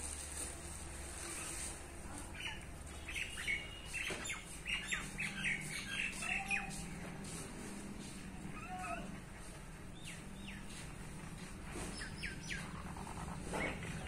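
Small birds chirping: a quick run of short high chirps a few seconds in and a few more near the end, over a faint steady low hum.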